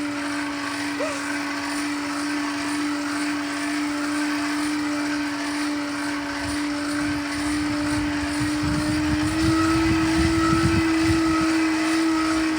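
Forge's electric air blower running steadily with a constant hum, its pitch stepping up slightly about nine seconds in, while it feeds air to the fire heating the metal.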